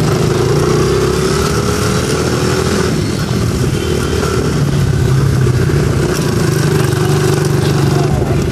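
Mini dirt bike engines running loud and steady, their pitch rising and falling slightly as the throttle is worked.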